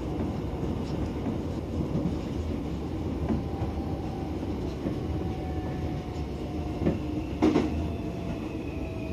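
Interior running noise of a Tobu 70000 series electric train: a steady low rumble with several wheel clacks over rail joints, the loudest about seven and a half seconds in. From about six seconds in, the traction motors' whine falls slowly in pitch as the train slows.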